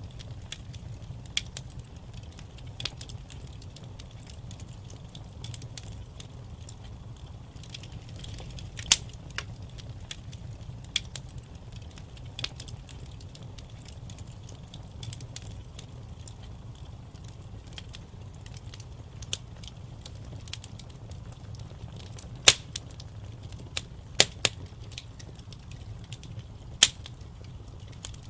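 Wood fire burning in a fireplace: a steady low rumble under irregular crackling, with a handful of sharper, louder pops, the loudest a little past two-thirds of the way in.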